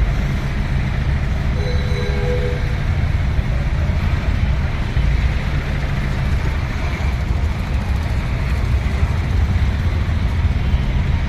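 Steady low rumble of vehicle engines and road noise in traffic, with a faint brief tone about two seconds in.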